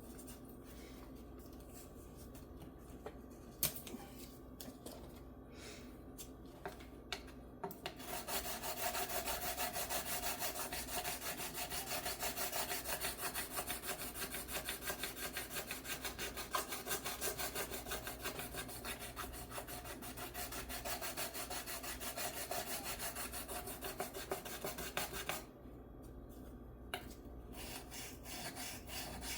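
Metal file rubbing back and forth over a guitar's frets in quick, even strokes, taking down two frets that clank under the strings. A few light taps come first; the steady filing starts about eight seconds in, stops for a moment a few seconds before the end, then picks up again.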